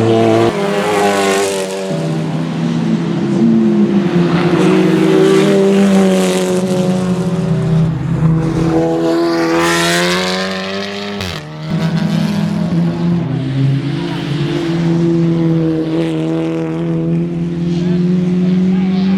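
Touring race cars running on the circuit, several engines at once. About halfway through, one engine climbs in pitch under acceleration, then drops briefly at a gear change or lift. The cars run on at a steady pitch after that.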